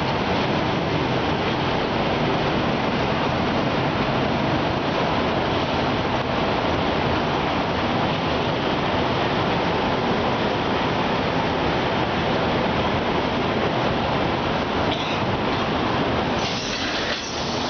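Passenger train coaches rolling slowly past close by along a station platform: steady wheel-on-rail running noise as the train arrives.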